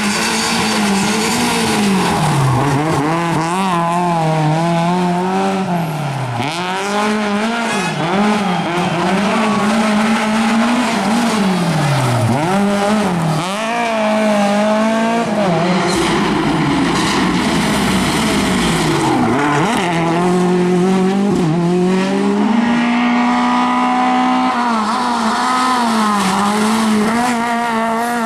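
Rally car engine driven hard on a stage, its pitch climbing under acceleration and dropping sharply at each gear change, over and over. A stretch of tyre noise in the middle.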